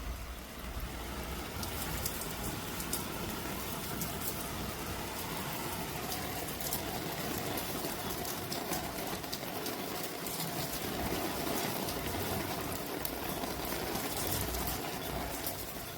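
Heavy rain falling steadily, with scattered sharp ticks of drops striking a surface over the hiss.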